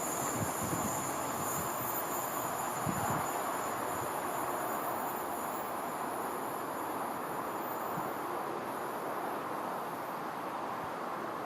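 Train running through the station: a steady rushing noise of wheels on rail, with a thin high tone that fades after about seven seconds.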